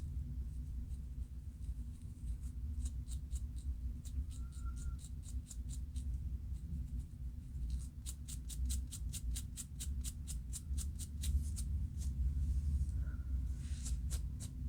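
Scratching of a scalp through the hair to loosen dandruff flakes: quick, rhythmic scratching strokes, about six a second, in two main runs, over a steady low hum.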